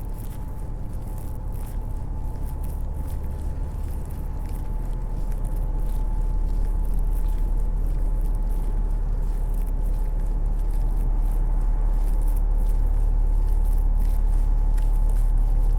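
Steady low rumble of city traffic, growing somewhat louder about halfway through, with faint ticks of footsteps on snow over it.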